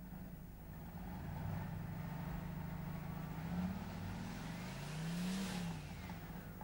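Car engine running as the car drives, revving up and easing off twice, most clearly about five seconds in.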